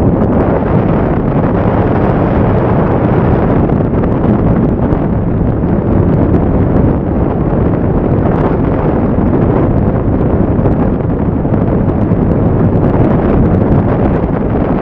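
Wind rushing over the microphone of a Yamaha MT-07 parallel-twin motorcycle riding at speed. The engine is a low, steady drone underneath.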